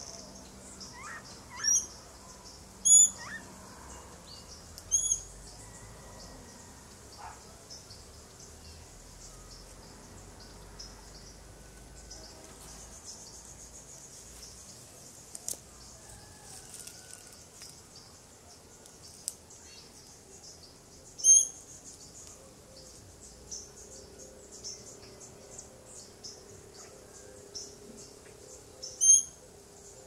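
Five short, high bird chirps: three in the first five seconds, one about two-thirds of the way through and one near the end. Behind them is a steady high trilling of insects.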